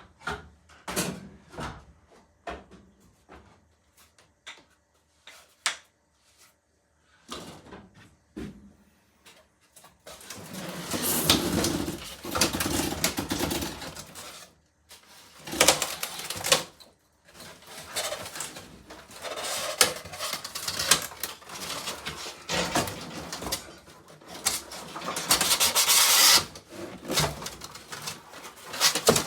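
Scattered knocks and clicks, then repeated bursts of scraping and rubbing from about ten seconds in, as a large model-railroad mountain piece is wrestled and shoved into place on a shelf.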